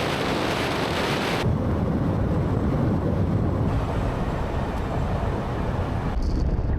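Wind blowing across the microphone, a loud steady rush, changing abruptly about a second and a half in and again near the end.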